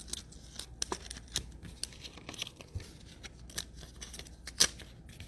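Trading cards and plastic pack wrappers being handled: irregular crinkles, rustles and small clicks, the loudest about four and a half seconds in.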